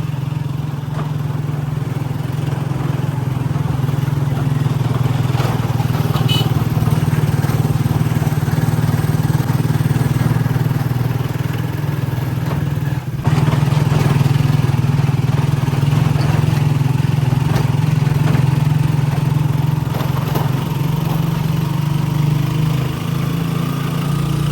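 Small motorcycle-type engine running steadily.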